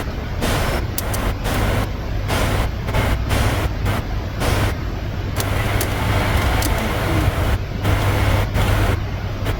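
A machine running with a steady low hum, with noise over it.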